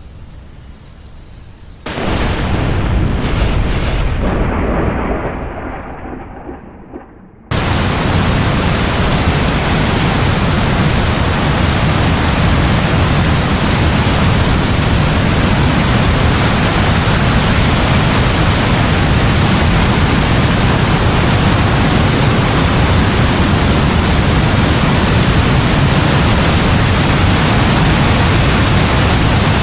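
A thunderclap about two seconds in, cracking and then rumbling away over about five seconds. Then heavy rain cuts in suddenly and keeps up as a loud, steady rush.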